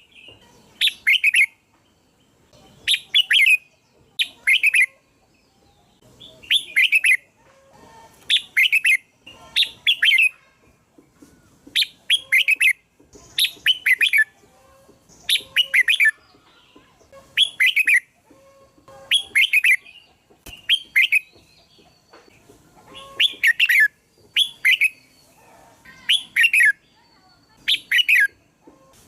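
Red-whiskered bulbul singing its short, bright whistled phrases, repeated regularly about every one and a half to two seconds.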